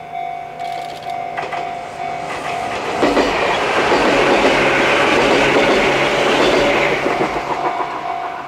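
Chichibu Railway 7500-series electric train passing close by, its wheels clattering over the rails, loudest from about three seconds in to about seven and a half. A level-crossing warning bell dings over and over throughout and is drowned out while the train goes by.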